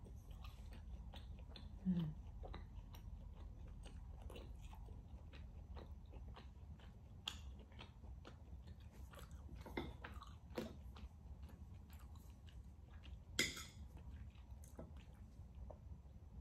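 Close-miked mouth sounds of a person chewing rare beef tenderloin with butter: soft, irregular wet clicks and smacks, with a few louder smacks, about two seconds in and again late on.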